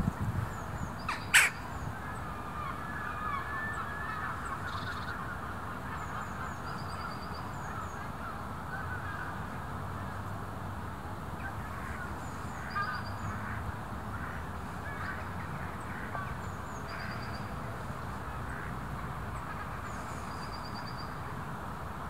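Birds calling: a steady chatter of wavering calls, with short high chirps every few seconds, and one sharp click about a second and a half in.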